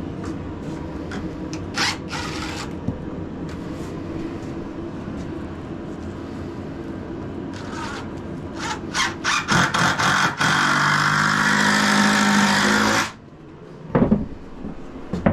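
Cordless drill driving a screw into the floor, first in a few short bursts, then in one sustained run of about three seconds that cuts off abruptly, over a steady background hum.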